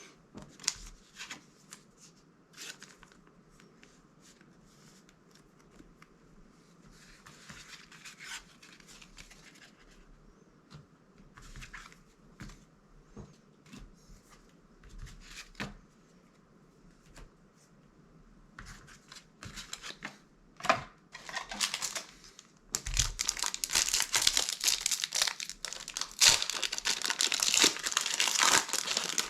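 Soft, scattered rustles and clicks of trading cards being handled and slipped into a protective plastic sleeve. About three-quarters of the way through, a loud continuous crinkling and tearing starts: a booster pack's foil wrapper being torn open.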